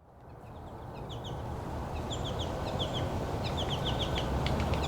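A flock of American goldfinches calling loudly, with quick clusters of short, high, chattering notes repeated over and over above a steady low rumble. The sound fades in over the first second or so.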